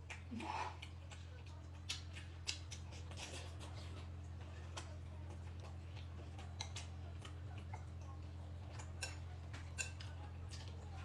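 Faint scattered clicks and small handling noises over a low steady hum.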